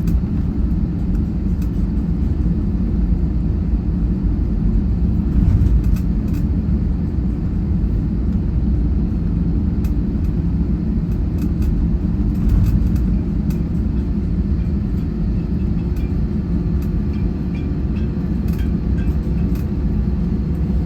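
Airliner cabin noise: a steady low rumble of the jet's engines and the airflow, with occasional light clicks and rattles from the cabin.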